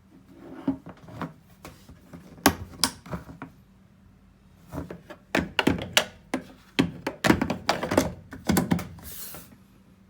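Irregular knocks, clicks and thunks, loosely grouped in two clusters, with a short hiss near the end.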